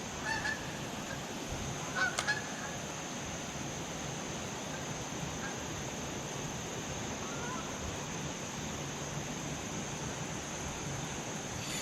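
Steady high-pitched insect buzzing over an even outdoor hiss, with two short honk-like calls about two seconds apart near the start and a few fainter ones later.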